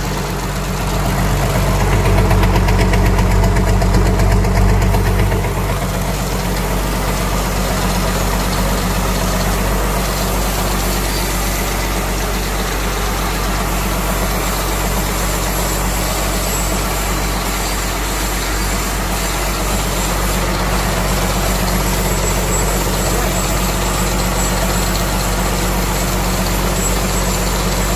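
Mitsubishi 6D14 inline-six diesel engine just after starting: it runs louder for the first five seconds or so, then settles to a steady idle.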